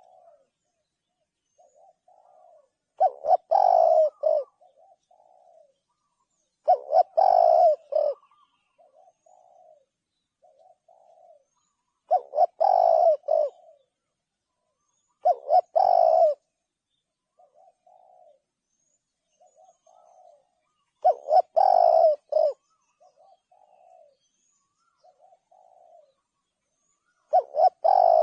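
Spotted dove cooing: loud phrases of several coos repeated every three to six seconds, with softer single coos in between.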